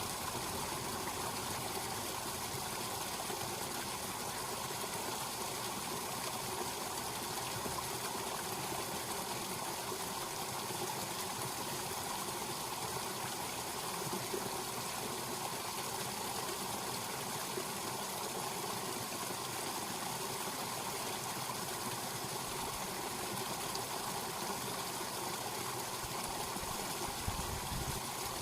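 Small snowmelt stream running and trickling steadily in spring.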